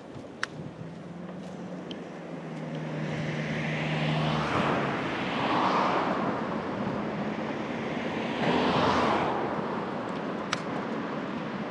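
Road traffic passing: two motor vehicles go by one after the other, the first swelling up and fading about five seconds in and the second near nine seconds, over a steady low engine hum.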